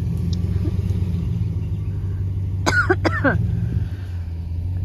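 A vehicle engine running steadily. About three seconds in, a person makes two short vocal sounds.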